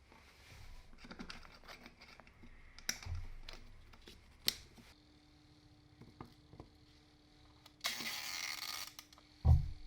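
Small parts and tools being handled at a workbench: scattered clicks and taps, a hiss lasting about a second around eight seconds in, and a loud low thump near the end.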